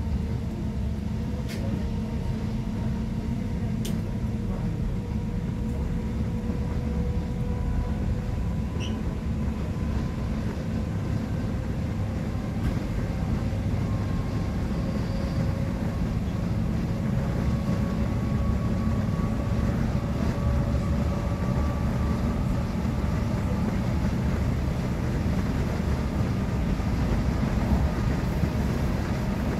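Running noise inside a V2N double-deck passenger coach: a steady rumble of wheels on rail, with a faint whine that climbs slowly in pitch as the train picks up speed again.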